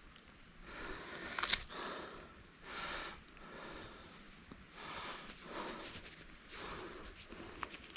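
Slow footsteps rustling through dry leaf litter and brush, a soft swell about every second, with one sharper snap or click about a second and a half in. A faint steady high-pitched tone runs underneath.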